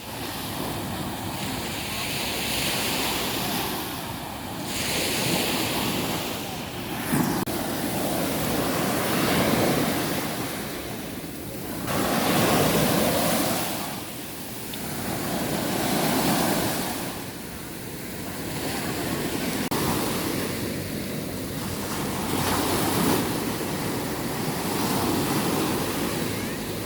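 Sea waves breaking and washing on the shore, the surf swelling and fading every few seconds, with wind buffeting the microphone.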